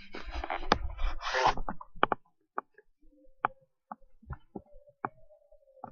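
Wind outside the house: about two seconds of rushing, rubbing noise, then scattered sharp clicks and knocks, while a faint, low, wavering whistle of wind sets in.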